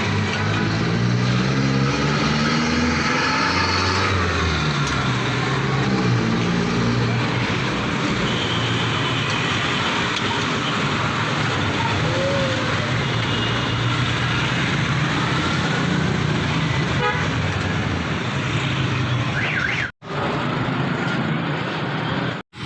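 Road traffic: a steady din of passing vehicles, with an engine's pitch rising and falling over the first several seconds. The sound cuts out briefly twice near the end.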